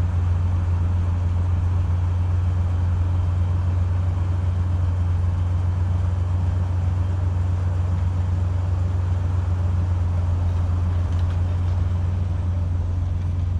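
A motor vehicle running steadily: a constant low engine drone under an even haze of noise.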